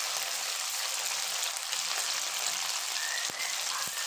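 Marinated, cornflour-coated chicken pieces sizzling steadily in hot oil in a kadai as they are dropped in by hand, with two faint clicks near the end.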